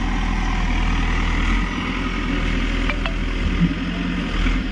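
Heavy diesel engine of a tractor or JCB backhoe running steadily at idle, a low, even hum. A couple of faint clicks come about three seconds in.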